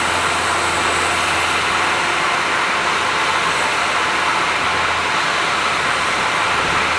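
Honda S660's turbocharged three-cylinder engine running through an HKS exhaust while cruising at expressway speed: a low exhaust drone under steady, loud road noise. The drone eases off a few seconds in and comes back near the end.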